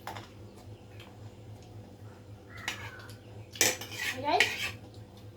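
Spoons clinking and scraping against dishes during a meal: scattered sharp clinks, with the loudest cluster about three and a half to four and a half seconds in.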